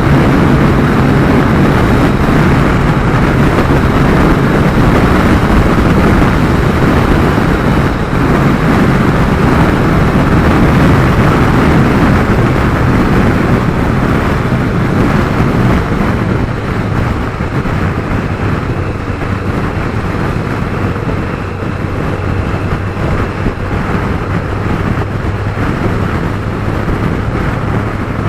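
Motorcycle riding at road speed: heavy wind rush and road noise over a steady low engine drone, easing a little in the second half.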